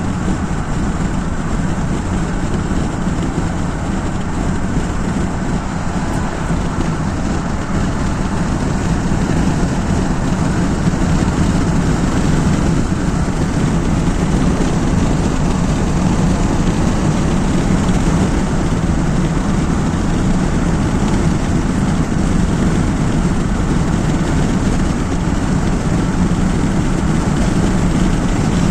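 Steady running noise of a car driving on the road, engine and tyre noise blended into a constant low rumble with a hiss above it, rising slightly in level about ten seconds in.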